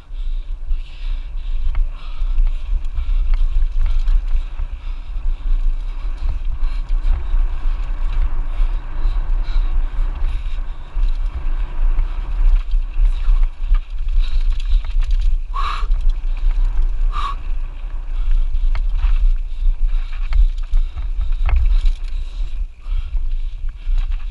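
Wind buffeting the camera microphone over the rumble and rattle of a Lapierre Zesty AM 427 mountain bike descending a downhill trail. Two sharp knocks come in the last third, about a second and a half apart.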